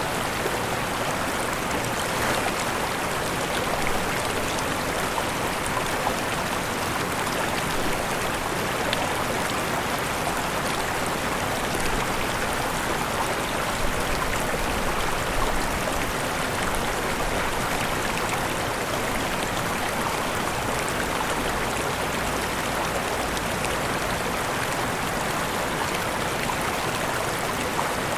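Falling and rushing water from a waterfall, a steady, even splashing hiss with no breaks.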